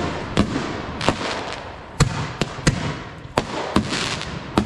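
Consumer aerial fireworks bursting overhead: a string of about nine sharp bangs, roughly two a second at uneven spacing, with a crackling hiss between them.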